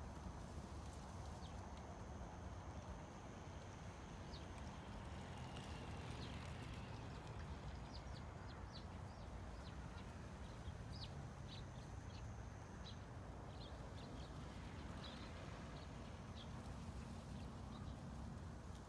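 Faint, steady low rumble of outdoor background ambience, with scattered short high ticks through the middle stretch.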